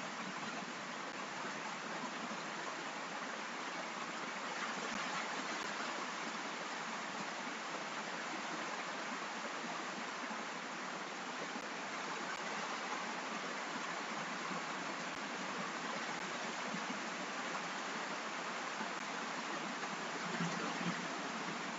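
Rain: a steady, even hiss of falling rain with no breaks.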